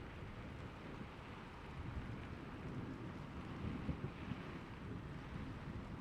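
Steady rain with a low, continuous rumble of thunder underneath.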